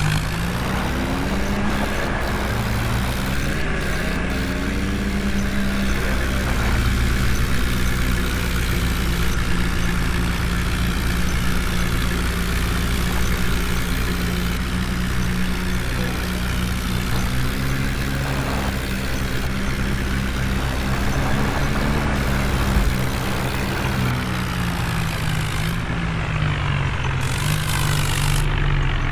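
Heavy diesel engine running hard, its pitch rising over the first few seconds, then holding fairly steady with slow rises and falls. A deeper rumble under it stops about three quarters of the way through.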